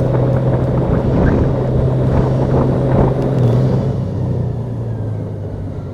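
Honda Gold Wing motorcycle riding along, its engine a steady low hum under wind and road noise; it gets a little quieter about four seconds in.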